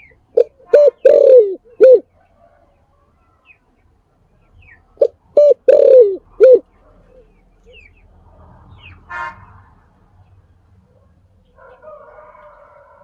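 Spotted dove cooing: two calls about five seconds apart, each of four notes with a long, falling third note.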